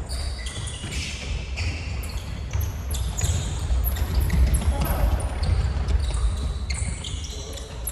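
Indoor futsal on a gym floor: frequent short, high shoe squeaks on the court with thuds of the ball and feet, players' voices calling out now and then, over a steady low rumble.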